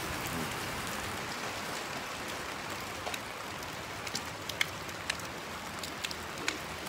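Heavy rain pouring with a dense, steady hiss, drumming on a cardboard box held overhead. A few sharper taps of single drops stand out in the second half.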